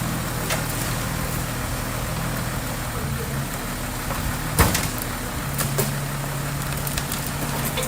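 Diesel engine of a small crawler bulldozer running steadily, with a sharp metallic clank about four and a half seconds in.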